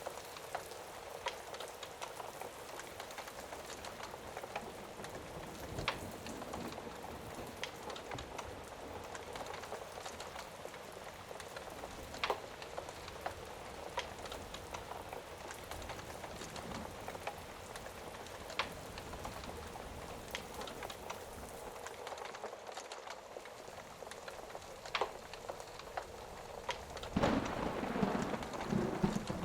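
Steady rain, with scattered sharp clicks throughout and a louder, lower burst of sound about two seconds long near the end.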